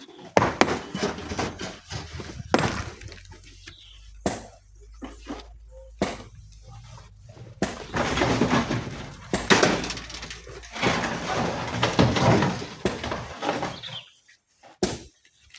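Rocks being broken and loaded into a dump truck: several separate sharp knocks of rock striking rock, then longer stretches of rocks clattering and crashing together about halfway through and again near the end.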